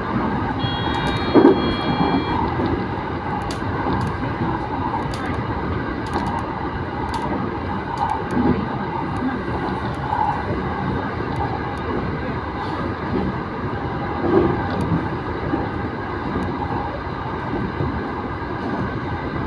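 Cabin of a moving electric train: the steady rumble of wheels on rail, with scattered clicks and a few louder knocks. A brief high whine of several steady tones sounds near the start.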